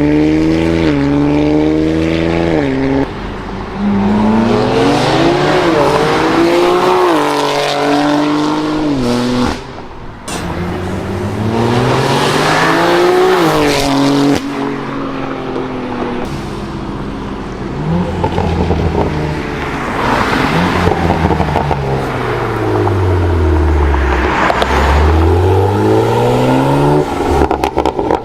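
BMW M3's S58 twin-turbo inline-six running through a valved aftermarket sport exhaust, the car accelerating hard with the revs climbing and dropping back at each gear change, several times over. Later the engine pitch falls away and rises again twice in long sweeps.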